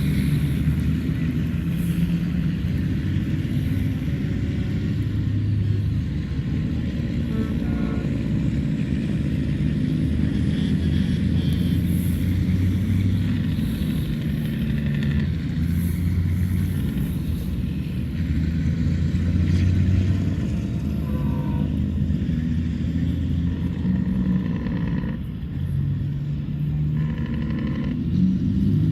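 Diesel engines of a procession of semi-trucks running steadily past, the low drone swelling and easing as trucks come and go.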